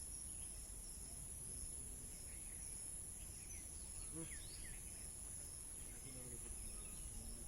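Insects keeping up a steady, high-pitched drone, with a few short bird chirps around the middle.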